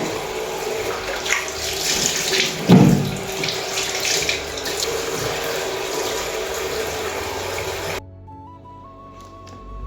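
Water running from a tap into a sink, with a clunk about three seconds in. The water cuts off abruptly about eight seconds in, leaving soft background music.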